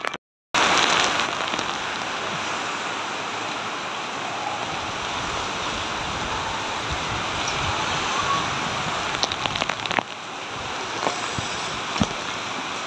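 Heavy rain pouring down in a steady, dense hiss that starts about half a second in after a brief gap, with a few sharp ticks near the end.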